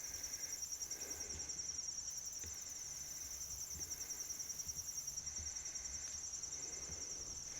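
Steady chorus of crickets or similar insects, a continuous high-pitched, rapidly pulsing trill.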